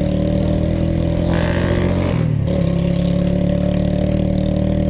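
Loncin Terminator 200 cruiser motorcycle's single-cylinder engine running at a steady cruising speed through its dual exhaust. About two seconds in the revs dip briefly, then hold steady again.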